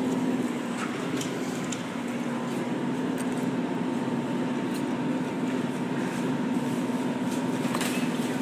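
Steady machine hum with two held tones over a background noise, from a claw crane machine running during a play, with a few faint clicks; the higher tone stops near the end.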